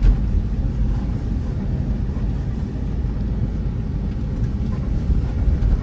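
Car driving, a steady low rumble of engine and road noise, with a brief knock right at the start.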